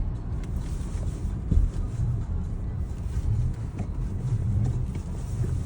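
Low, steady rumble of a car driving along a snowy road, with a single thump about a second and a half in.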